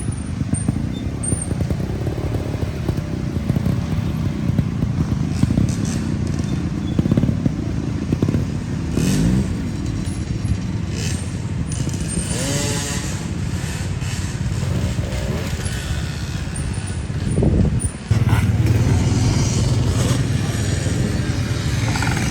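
Off-road dirt bike engines running and revving as riders work through a section of the course, with the pitch rising and falling under the throttle a few times, about 9 and 12 seconds in.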